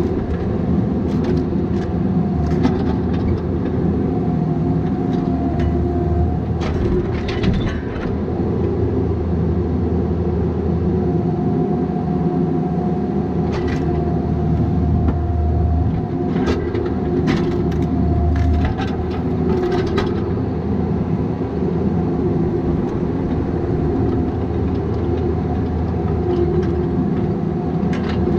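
Bobcat 337G mini excavator's diesel engine running steadily under work, with a hydraulic whine that comes and goes. Scattered clanks and knocks, bunched around the first few seconds, just before the middle, and in the second half.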